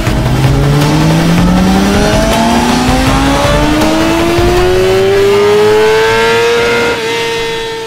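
Sport-bike engine accelerating hard, its pitch climbing steadily for about seven seconds, then levelling off and fading out near the end.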